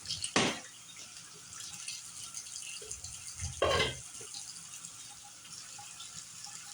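Kitchen handling sounds while yuca is prepared by hand: scattered light clicks and two brief clatters about three seconds apart.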